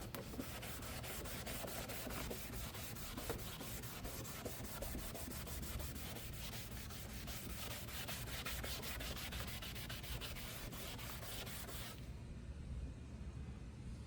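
Hand-held scrubbing pad rubbed rapidly back and forth over a plastic car headlight lens with cleaning solution, a steady rhythmic scrubbing. The strokes stop about two seconds before the end.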